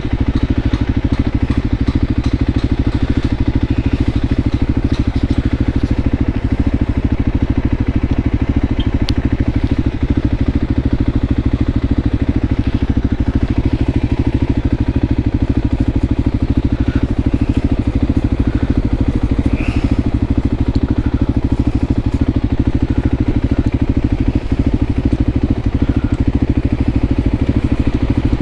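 Voge 300 Rally's single-cylinder engine running at a steady, unchanging speed.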